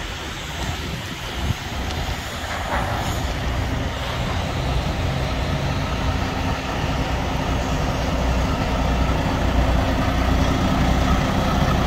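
Semi-truck diesel engine running with a steady low rumble, growing louder after about three seconds.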